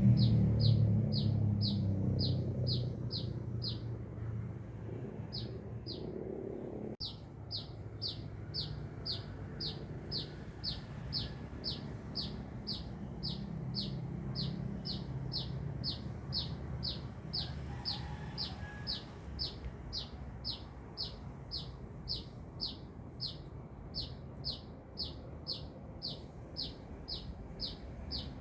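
A sunbird calling a short, high, down-slurred chirp over and over, about two a second, with a couple of brief pauses in the first seven seconds. A low rumble fades out over the first few seconds.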